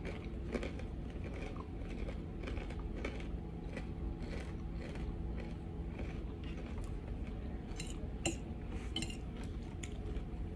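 Eating sounds: chewing and biting food, with irregular small clicks and clinks of cutlery and dishes, over a steady low hum.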